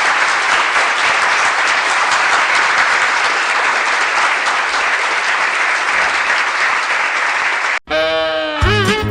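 A crowd applauding and clapping steadily for about eight seconds, then cutting off abruptly. A short warbling, wavering tone follows, then a music clip begins near the end.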